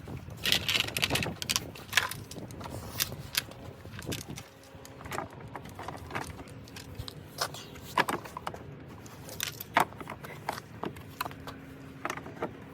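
Irregular sharp clicks and light knocks, like small hard parts being handled, with a faint steady hum starting about four and a half seconds in.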